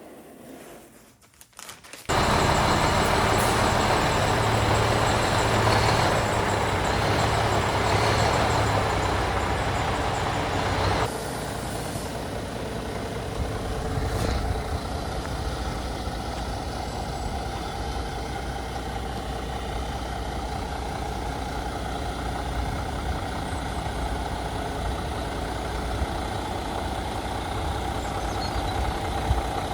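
Scania truck's diesel engine running. It comes in suddenly about two seconds in, is loudest for several seconds, then drops a little near the middle and runs steadily.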